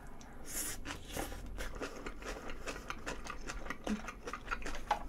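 Close-miked chewing of a mouthful of steamed flower bun (kkotppang) wrapped around gochu japchae, stir-fried peppers and thinly sliced meat: many small, irregular wet mouth clicks.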